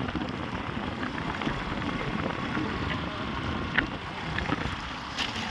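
Wind buffeting the microphone over the low rumble of a motorcycle on the move, with scattered small knocks.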